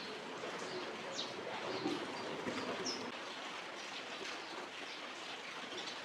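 A few short, high bird chirps over a steady background hiss.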